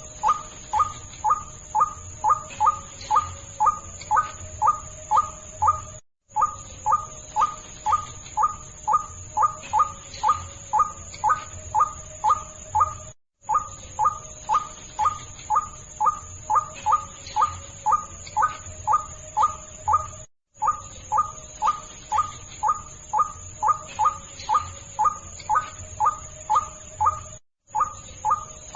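Looped lure recording of a white-breasted waterhen's ruak-ruak call: a fast, even run of harsh repeated notes, about two and a half a second. The loop breaks off for a moment roughly every seven seconds and starts again.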